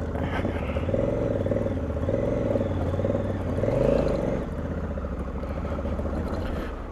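Motorcycle engine running under way, its revs rising and falling as the throttle is worked. The revs climb to a peak about four seconds in, then settle to a steady pitch.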